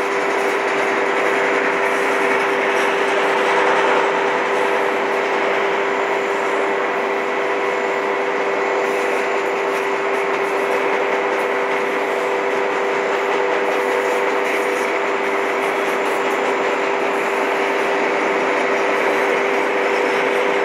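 Freight train of autorack cars rolling past at steady speed: continuous rumble and rattle of steel wheels on the rails, with a steady tone over it that does not change.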